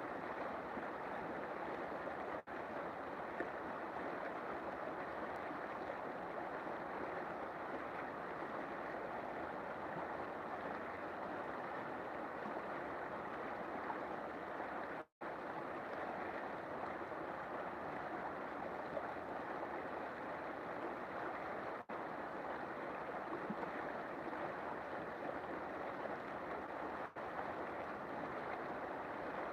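River water flowing and rushing steadily. A few split-second dropouts break it, one going fully silent for an instant about halfway through.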